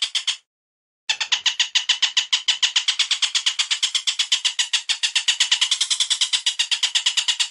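A bird's call: a rapid, even string of short repeated notes, about nine a second, looped as a bird-training (masteran) recording. It drops out for a moment just after the start and resumes about a second in.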